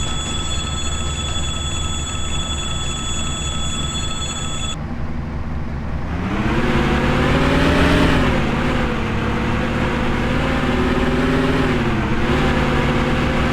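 Low rumble with a steady high whine that cuts off suddenly about five seconds in. About six seconds in, a 2TE10U diesel locomotive's two-stroke opposed-piston 10D100 engine comes up louder, its pitch rising and dipping twice before settling to a steady run.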